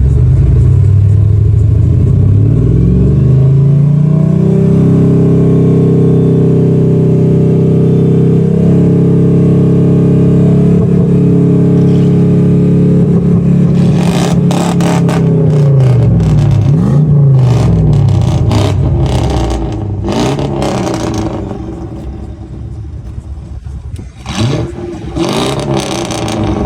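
M113 V8 in a Mercedes-Benz W124 E500, heard through its exhaust, revved up from idle and held at high revs for about ten seconds. The revs then fall away into a few quick blips, with a run of sharp crackles while the revs come down and again near the end.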